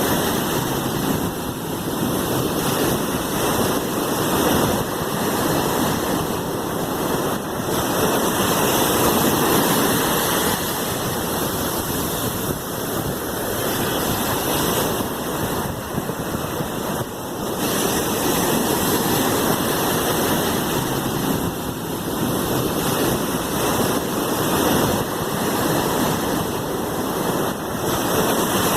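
Sea waves washing on the shore as a continuous rushing surf noise, rising and falling gently every few seconds.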